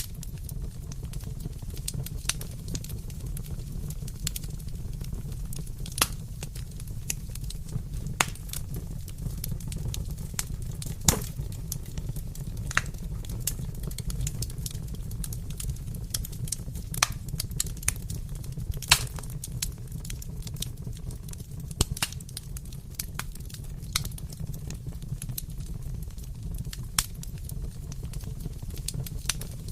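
Wood fire crackling in a fireplace: a steady low rumble with sharp pops and snaps at irregular intervals.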